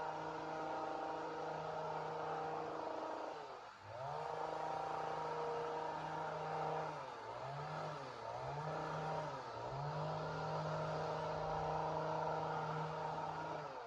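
Two-stroke chainsaw engine running at high revs. Its pitch dips and climbs back once about four seconds in and three times in quick succession around the middle, then the sound stops near the end.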